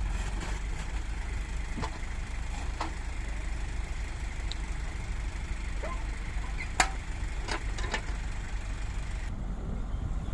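Dump truck's diesel engine idling with a steady low rumble, with scattered light clicks and knocks and one sharp click about seven seconds in.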